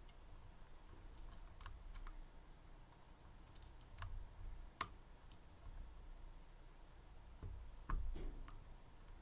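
Faint, scattered clicks of a lock pick probing the pins of a Medeco M3 six-pin high-security lock, with a few low thumps from the lock being handled.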